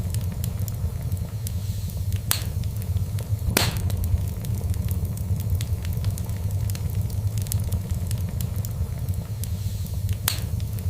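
Fireplace fire crackling over a steady low rumble of flames, with many small ticks and three sharper pops: one about two seconds in, a louder one a second later, and one near the end.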